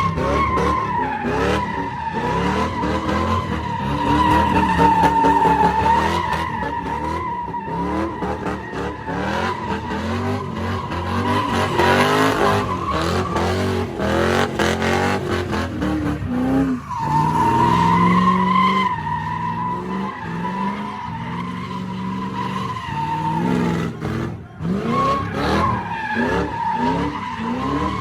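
Car tires squealing in a long skid while the engine revs up and down repeatedly, with a brief break in the squeal about two-thirds of the way through.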